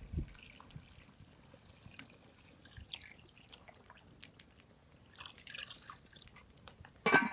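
Water dripping and splashing in light, scattered taps, with a short, louder clatter near the end.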